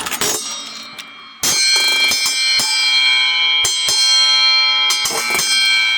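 3D-printed Beyblade spinning tops clashing in a stadium. A sharp hit at the start, then about a second and a half in a sudden loud, steady, high ringing that holds on, broken by several sharp knocks as the tops strike each other.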